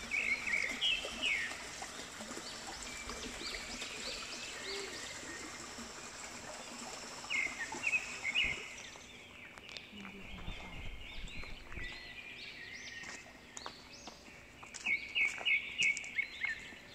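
Forest birds chirping in quick runs of short rising notes, in bouts near the start, about halfway and near the end, over a steady background hiss.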